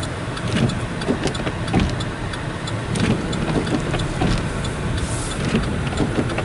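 Car driving on a snow-covered road, heard from inside the cabin: a steady road and engine rumble with frequent small knocks and clicks throughout.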